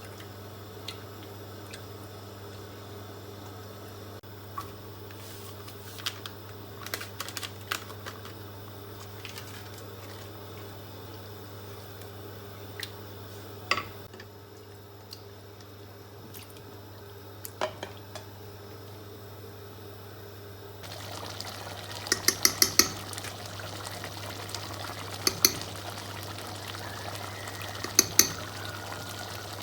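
Kitchen cooking sounds over a steady low hum: scattered clinks of utensils against pots or dishes, then, about two-thirds of the way through, a steadier rush of poured or running water with several quick clusters of clinks.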